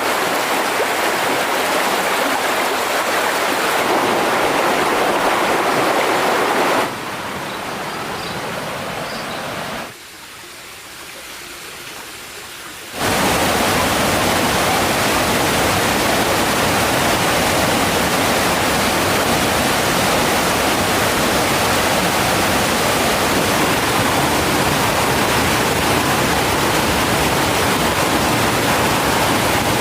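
Rushing water of a mountain stream: a steady, full hiss of flowing water. It drops abruptly to a quieter rush about seven seconds in, drops again around ten seconds, and comes back full strength about thirteen seconds in.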